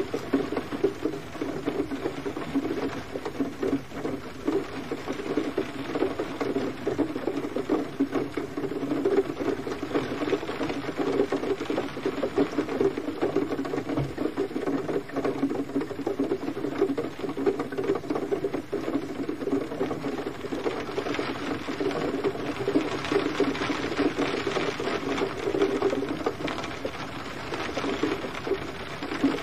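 Gentle rain pattering steadily, an even, continuous patter of many small drops with no thunder.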